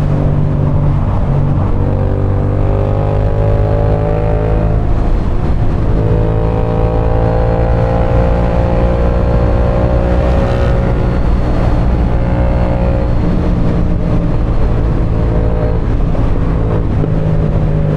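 Motorcycle engine running steadily while riding, its pitch slowly rising and falling a few times as the throttle changes.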